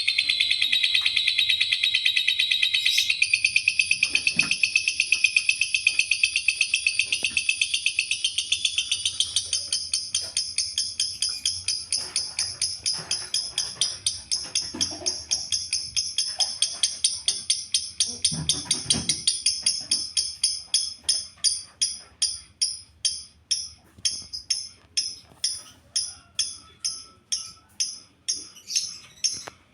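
Lovebird giving a long run of shrill, rapidly repeated chirps. They are almost continuous at first and slow into separate notes about three a second toward the end.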